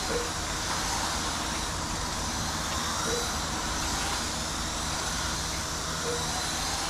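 1/18-scale RC race trucks running laps, a steady din of small electric motors whining up and down with tyre hiss. A short faint beep sounds about every three seconds.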